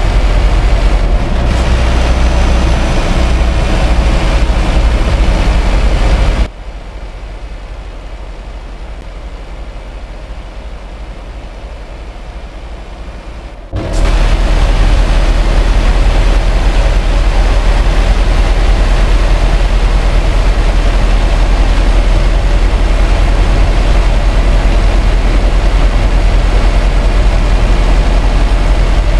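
Scania R560 truck's V8 diesel running steadily with road noise while hauling about 80 tonnes, a loud, deep rumble. About six seconds in it drops to a quieter, duller level for around seven seconds, then comes back abruptly.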